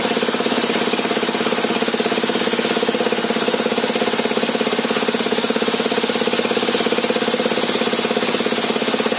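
Engine powering a sawmill table saw, running steadily with a rapid, even pulsing beat.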